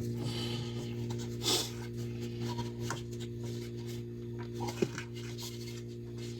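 Faint rustling, scraping and small knocks of electrical wires being handled and pulled through a wall box, over a steady low hum.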